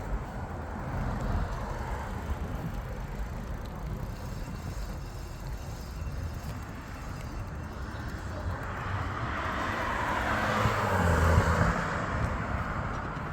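Steady low rumble of road and wind noise, with a car passing: its noise swells from about two-thirds of the way in, peaks near the end, then eases off.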